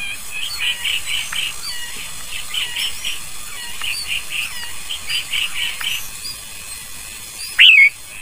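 Northern cardinal nestlings begging at the nest: rapid runs of short, high, squeaky chirps that stop about six seconds in. One louder bird call slides down and back up near the end.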